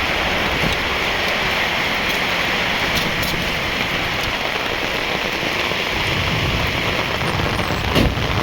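Steady rain falling, an even rushing noise throughout, with one sharp tap near the end.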